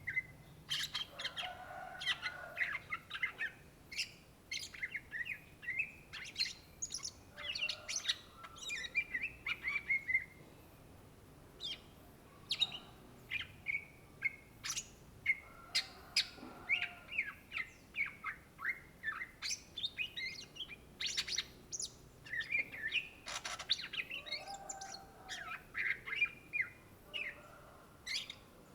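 Greater green leafbird (cucak ijo) singing a long, varied song of rapid chirps, trills and whistled glides in quick bursts with short pauses.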